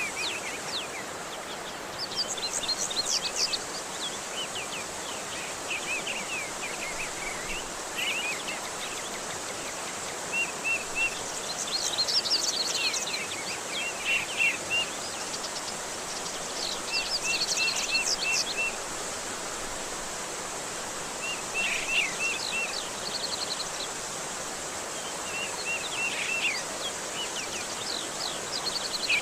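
A songbird calling and singing in short, varied phrases every few seconds: quick sweeping notes and runs of short repeated chirps, over a steady hiss.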